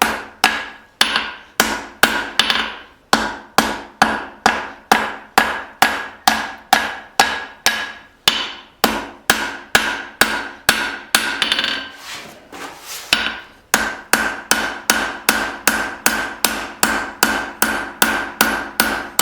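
Forging hammer striking hot leaf-spring steel on an anvil, steady blows about two a second, each with a ringing tone, drawing out the knife's tip. About twelve seconds in the blows soften for a moment, then pick up again a little faster.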